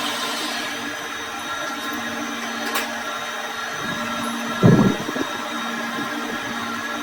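An electric workshop machine motor running steadily with a humming tone. There is a sharp click near three seconds in and a heavier thump a little after four and a half seconds.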